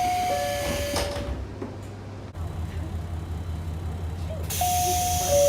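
JR local train door-closing chime, a falling two-tone ding-dong, followed about a second in by the doors knocking shut. Near the end a hiss starts and the two-tone chime sounds again as the next set of doors begins to close.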